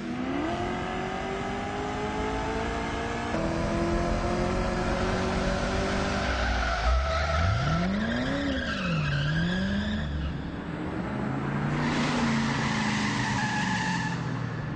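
Ford Mustang GT's V8 accelerating hard with tyres squealing. The engine note climbs steadily, steps about three seconds in, then revs sharply up and back down about halfway through before settling at a steady drone.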